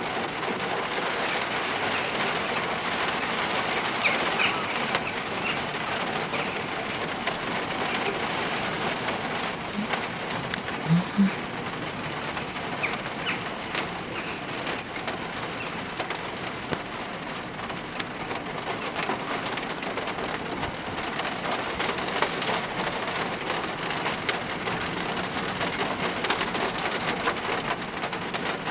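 Steady rain falling, with a few brief bird calls from the rookery now and then. Two short low-pitched sounds stand out about eleven seconds in.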